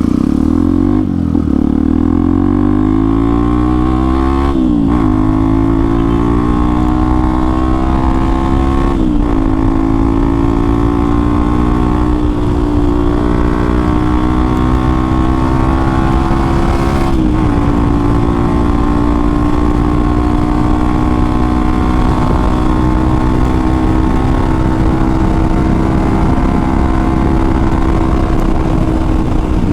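Hero XPulse 200 4V single-cylinder engine through an aftermarket Akrapovic exhaust, pulling up through the gears with short shifts about 4, 9 and 17 seconds in. It then holds a steady cruising pitch.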